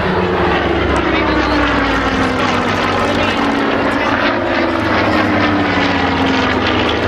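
Supermarine Spitfire's piston engine and propeller in a display flypast, the engine note falling steadily in pitch as the aircraft passes.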